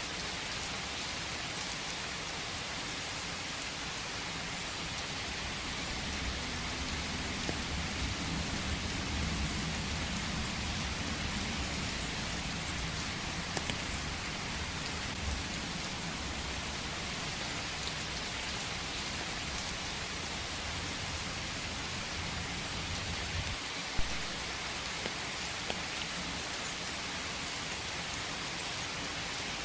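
Steady rain falling in a forest, with scattered drops ticking on surfaces. A low rumble swells through the middle and fades, and a single sharp drop tap stands out near the end.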